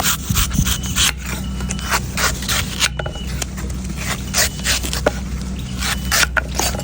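A knife striking and scraping a coconut in quick, irregular strokes, several a second, over a steady low hum.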